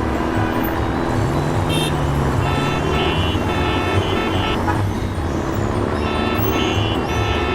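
A motor vehicle's engine running with a steady low rumble under background music, with short high tooting notes repeating from a few seconds in.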